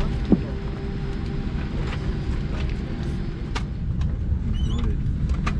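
Steady low rumble inside a Boeing 747-8's cabin during boarding, with scattered clicks and knocks and a short rising squeak just after the start.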